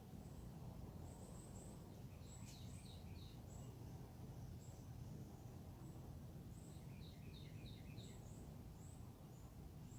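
Faint backyard birdsong: scattered short, high chirps, with two quick runs of notes about two and a half and seven seconds in, over a low steady rumble.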